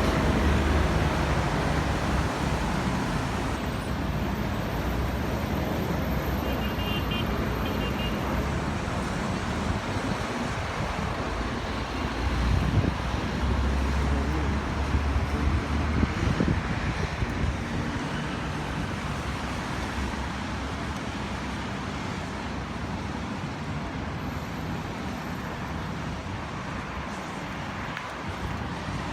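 Road traffic: vehicles driving past with a steady hiss and a low rumble that swells a couple of times.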